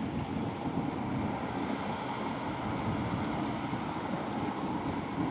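A center console boat's outboard engines running steadily as it passes through the inlet, mixed with wind buffeting the microphone.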